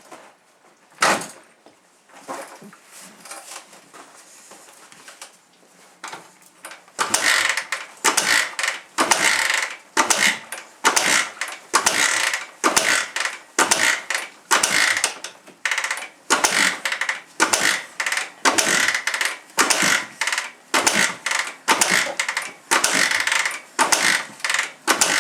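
Suzuki DR-Z125's single-cylinder four-stroke engine being kicked over again and again at a little more than one kick a second, starting about seven seconds in. It turns over on each kick but does not fire: a cold start after months sitting unused. Before the kicking there are a few scattered clicks and handling noises.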